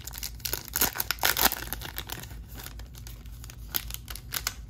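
Foil wrapper of a trading-card pack crinkling and tearing as it is opened by hand, with irregular crackles that are busiest early and thin out near the end.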